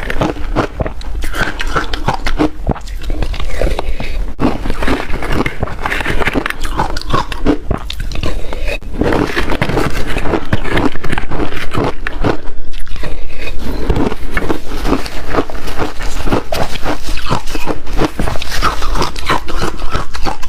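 Ice being bitten and chewed close to the microphone: a dense, irregular run of loud crunches that grows louder about halfway through.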